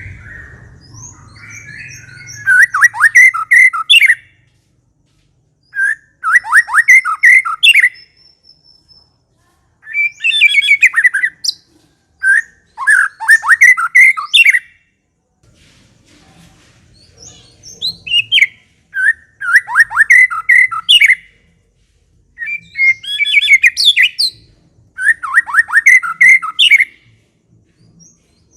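White-rumped shama (murai batu) singing in about eight bursts of rapid, chattering notes, the 'ngekek' call. Each burst lasts a second or two, with short pauses between them.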